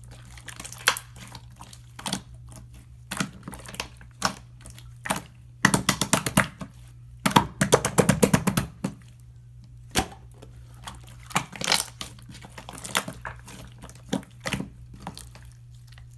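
Irregular clicks, taps and crinkles of marbling materials being handled by hand, with two stretches of rapid clicking in the middle, over a faint steady hum.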